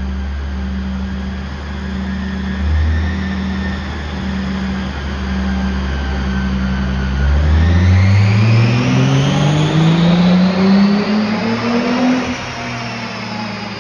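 Volkswagen Corrado race car's 2.8-litre VR6 engine on a dyno: running steadily, then, about halfway through, pulled up through the rev range in a long rising sweep that peaks near the end and drops away as the throttle is lifted. The engine is down on a cylinder, by the owner's account.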